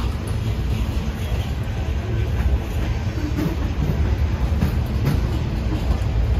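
Freight train rolling past: a steady heavy low rumble of the cars, with occasional short clicks from the wheels.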